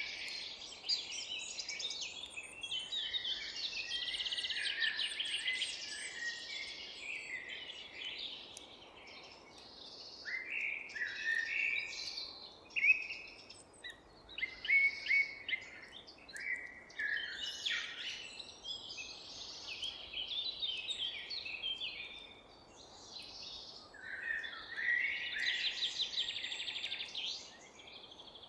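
Several songbirds singing and chirping at once, with overlapping short calls and fast trills, over a faint steady background hiss.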